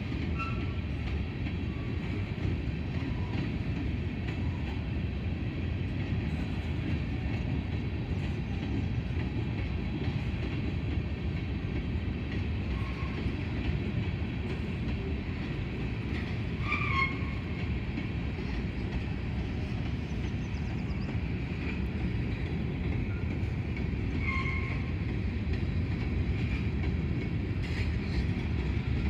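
Covered hopper cars of a freight grain train rolling past, their steel wheels on the rails giving a steady low rumble. Now and then a brief high squeak sounds over it.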